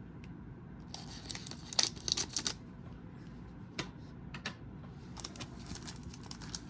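Trading-card pack and cards being handled: light, irregular clicks and crinkles of the wrapper and card stock, in small clusters.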